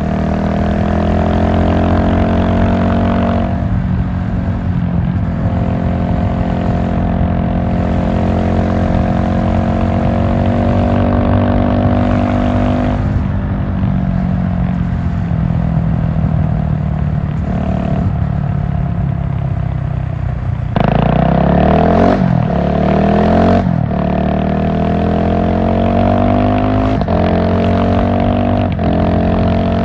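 GasGas SM700 supermoto's single-cylinder engine running on the move, its pitch rising and falling with the throttle. About two-thirds of the way through it gets louder for a few seconds, with quick sweeps in pitch as the rider opens the throttle hard.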